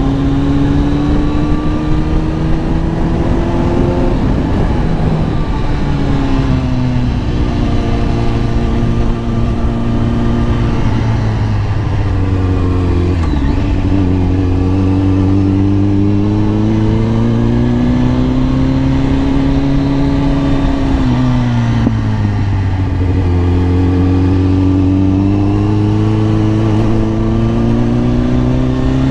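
Kawasaki ZX-10R inline-four engine pulling through the revs while riding. Its pitch climbs, drops back, and climbs again several times, with a long dip near the middle and a steady rush of wind and road noise underneath.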